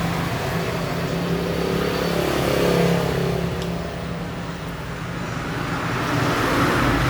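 Motor vehicle traffic: engines running steadily, with one vehicle swelling in about two to three seconds in and another building near the end.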